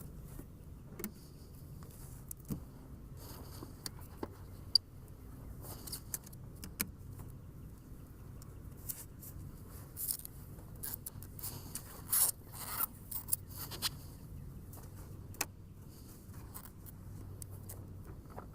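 Scattered clicks, scrapes and rubs from beekeeping equipment being handled at an open hive, over a low steady hum.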